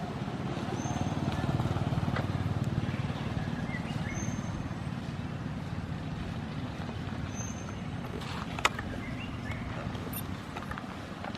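A steady low rumble, swelling briefly about two seconds in, with a single sharp click near the end and a few faint, short high chirps.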